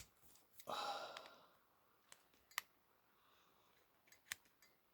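Faint, sparse sharp clicks of a small hand tool nibbling at the die-cast metal around a toy truck's axle, with a breathy sigh-like exhale about a second in.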